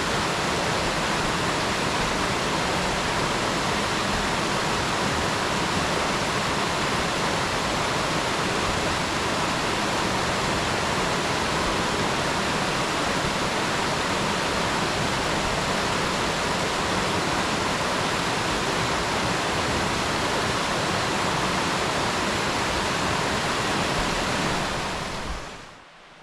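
A mountain stream rushing steadily, a dense even wash of water sound, fading out quickly near the end.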